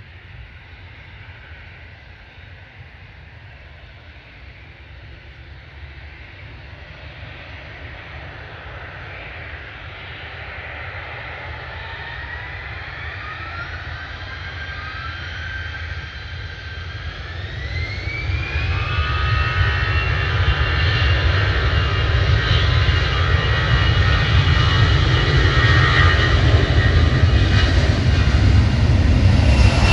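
A jet airliner's engines spooling up. A whine climbs in pitch over several seconds about halfway through, then holds steady while the engine noise keeps growing louder, typical of thrust being brought up for takeoff.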